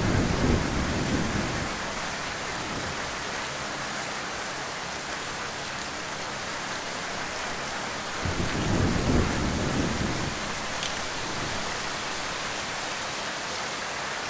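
Heavy rain falling as a steady hiss, with low rumbles of thunder in the first second or so and again from about 8 to 10 seconds in.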